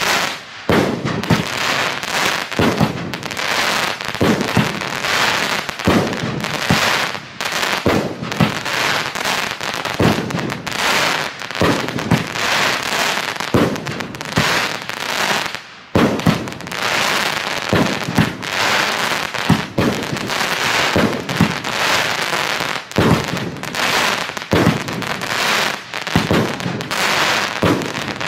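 Funke Duplex Cracker Rain firework going off: a dense, continuous crackling of many small bangs, with a brief lull about halfway through.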